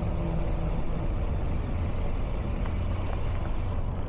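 Steady low rumble of road traffic with a thin, high, steady whine over it, heard while riding along on an e-bike.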